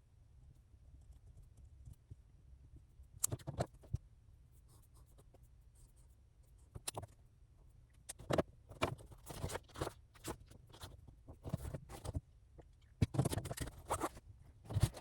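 Pen writing on paper: irregular scratching strokes, a few at first, then busy runs of writing in the second half.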